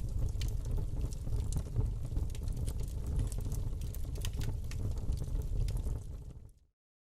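Wood fire burning in a fireplace: irregular sharp crackles and pops over a steady low rumble of the flames. The sound fades out to silence near the end.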